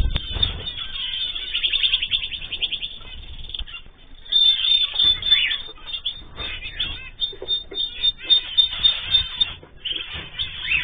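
Mixed cage birds (cockatiels, zebra finches and canaries) chirping and calling over one another without pause, with runs of fast rattling trills.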